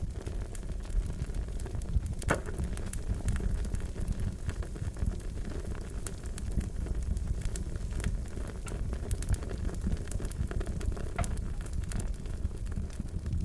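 Crackling fire: a steady low rumble of burning with scattered sharp crackles and pops, one louder pop about two seconds in.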